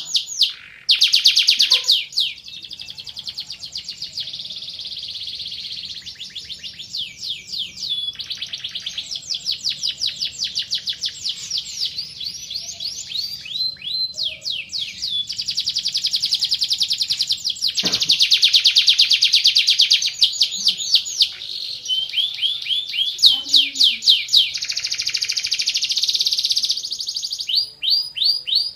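Domestic canary singing a long, nearly unbroken song of rapid trills and rolls, each run of repeated notes at a different speed, from fast rattling rolls to slower chopped notes.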